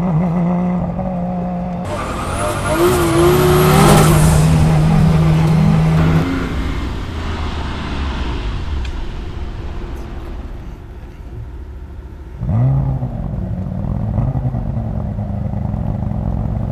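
Porsche convertible's engine pulling away and accelerating, loudest from about two to six seconds in, easing off, then revving sharply again about twelve seconds in.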